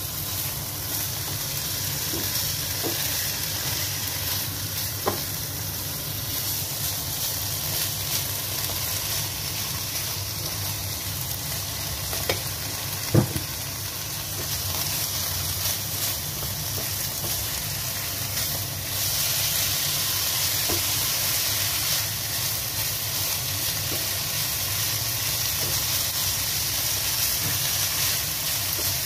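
Chicken strips, bell peppers and red onion sizzling in a hot nonstick wok as they are stir-fried, with a spatula knocking against the pan a few times, the sharpest knock about thirteen seconds in. The sizzle gets a little louder about two-thirds of the way through.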